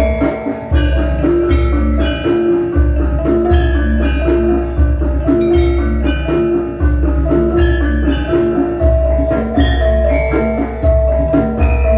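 Javanese gamelan ensemble playing a gending: bronze metallophones strike a repeating melody over deep low beats about once a second, played loud through a sound system.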